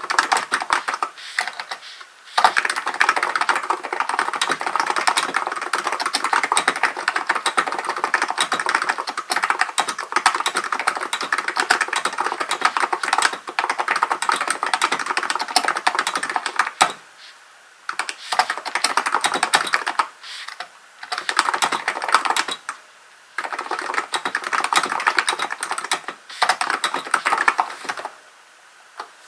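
Hansung GK898B electro-capacitive keyboard being typed on in fast, steady runs of key clicks, broken by several brief pauses.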